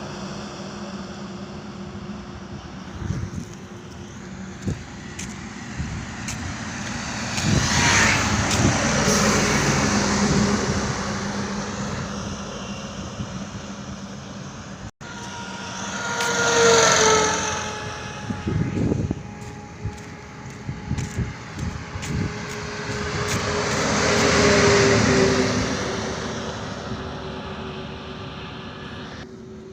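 Highway traffic: trucks and cars passing one after another, each swelling and fading away. The three loudest go by about a quarter of the way in, just past halfway, and near the end; the middle one's engine note drops in pitch as it passes.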